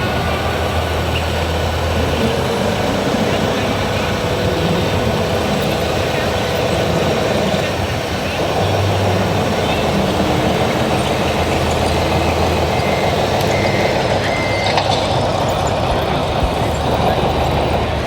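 Radio-controlled model trucks running, a steady mechanical din, with people talking in the background.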